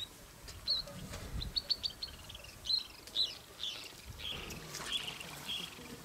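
Wild birds chirping, giving many short high-pitched calls, some in quick runs of several notes.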